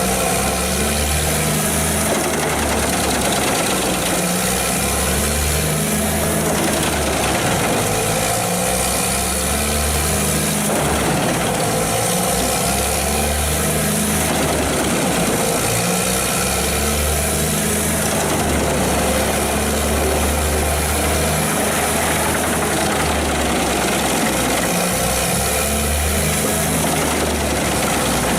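Large forestry wood chipper running hard: a steady heavy engine drone with grinding noise that swells and eases every few seconds as material is fed through.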